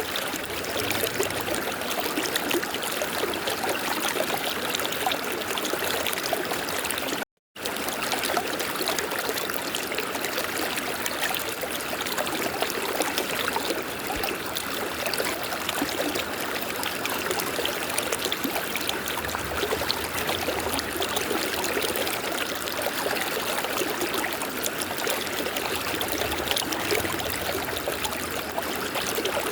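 River water flowing steadily, an even rushing and trickling over the stream bed. The sound cuts out completely for a split second about seven seconds in, then resumes.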